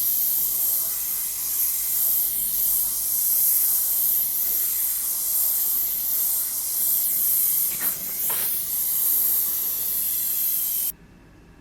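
A steady, loud hiss that cuts off suddenly near the end.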